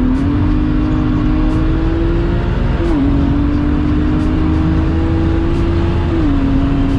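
Single-turbo BMW 135i's turbocharged straight-six pulling hard under full throttle, its pitch climbing slowly through each gear and dropping at upshifts about three and six seconds in.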